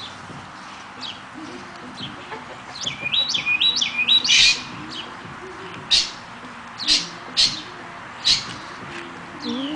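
Birds chirping: a quick run of repeated high notes about three seconds in, then several loud, sharp chirps spaced about a second apart.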